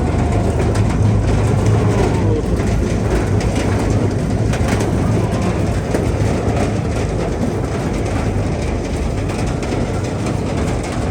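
Steady low drone of a moving vehicle's engine with even rolling noise, heard from on board.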